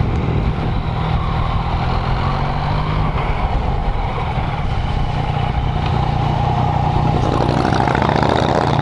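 2017 Yamaha MT-09's 847 cc inline-three engine running at low revs as the motorcycle slows and rolls into a parking area, a steady low note settling in about three seconds in.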